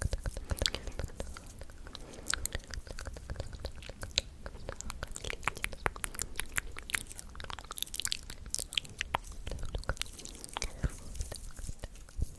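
Close-miked ASMR mouth sounds: a dense, irregular run of small wet clicks and smacks, several a second.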